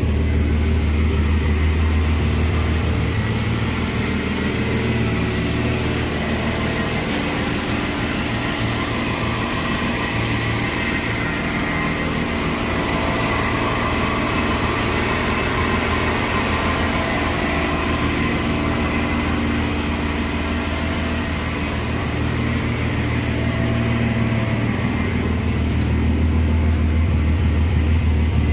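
Mercedes-Benz W124 300E straight-six running steadily through a straight-piped exhaust, with no mufflers. Its deep low note is strongest about the first three seconds and again near the end.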